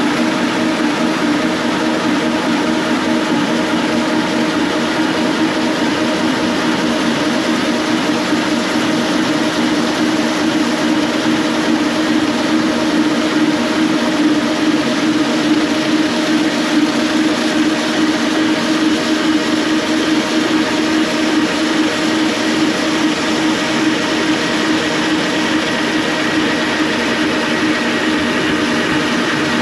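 Floor machine fitted with a four-disc Hyper Grinder head running continuously, its abrasive discs grinding painted coats off a wood floor. A steady, loud drone with a constant hum, swelling slightly midway.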